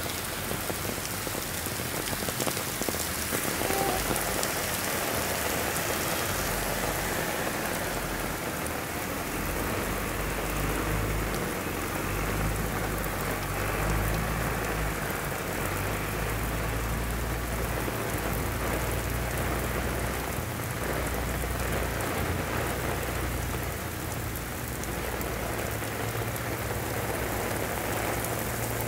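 Heavy rain pouring steadily. A low rumble comes and goes from about ten seconds in.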